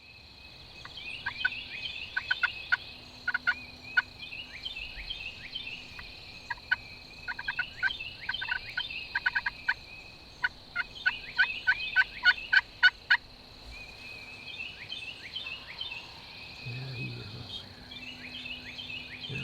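Wild turkey gobbler gobbling over and over: runs of sharp, quickly falling notes, the loudest and fastest run about two thirds of the way through, fainter ones near the end. A steady high whine runs underneath.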